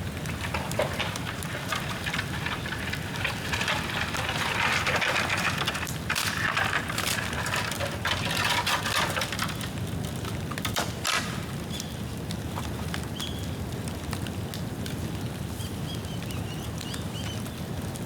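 Bonfire of damp bamboo crackling and popping, with a hissing rush of flame that swells between about four and nine seconds in and a sharp pop near eleven seconds.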